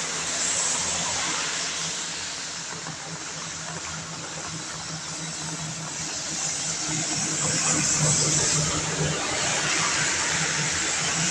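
Rain hissing steadily on a wet road, with traffic swishing over the wet asphalt that grows louder in the second half as a vehicle draws near.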